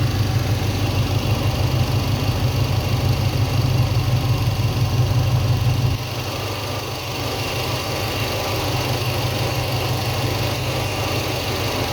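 Engine idling during a cylinder-kill test with a spark plug wire shorted to ground. About halfway through the running note changes abruptly, losing much of its low rumble and dropping a little in level. Shorting the wire makes the idle dip and chug slightly, which shows that cylinder is firing and not dead.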